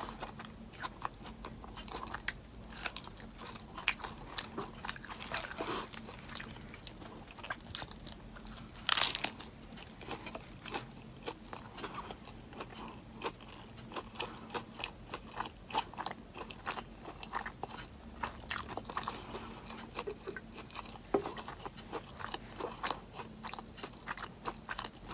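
Close-miked chewing of crunchy food, a steady run of irregular crisp crunches with one louder crunch about nine seconds in.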